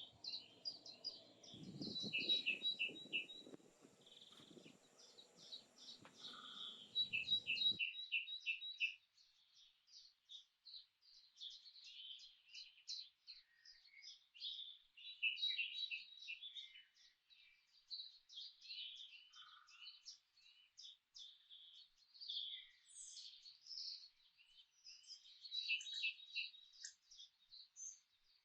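Forest birds chirping in many short, high calls, some in quick even runs. For the first eight seconds a low noise sits under them, then it stops abruptly.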